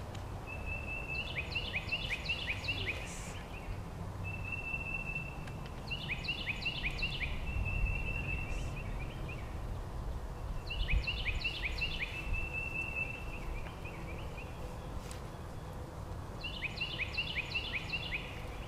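A songbird singing the same short phrase four times, each a held whistle with a quick run of about six down-slurred notes, over a low steady background rumble.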